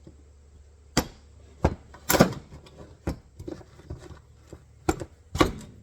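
Metal clanks and clicks of a screwdriver prying at the springs of an MB-550 trap to release them: about half a dozen sharp knocks at irregular spacing, the loudest a little over two seconds in, with lighter clicks between.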